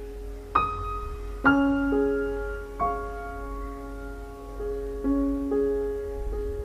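Slow, gentle piano music: single notes and soft chords struck about once a second, each left to ring and fade.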